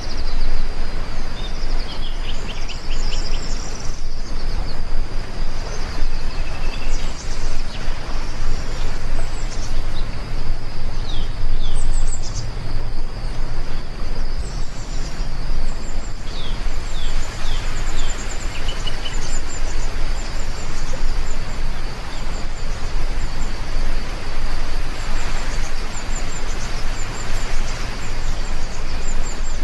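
Steady heavy rain, with birds chirping on and off over it and a constant high, thin tone.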